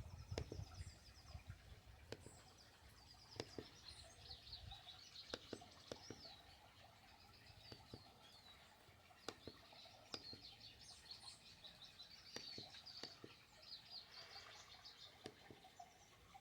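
Faint birdsong, chirps and short trills repeating throughout, with scattered soft clicks.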